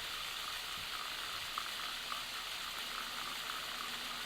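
Waterfall rushing steadily, with small splashes ticking through the steady hiss of falling water.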